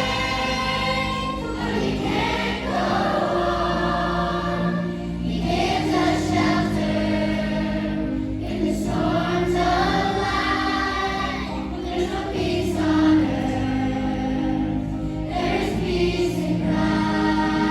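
A choir singing a slow song in phrases over sustained accompaniment.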